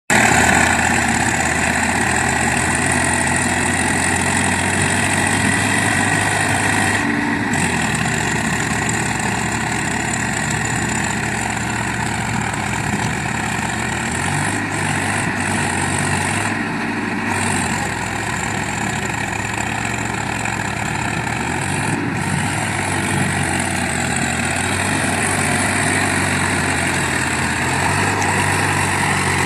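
Swaraj 744XT 4x4 tractor's diesel engine running continuously, its speed dropping and rising a few times.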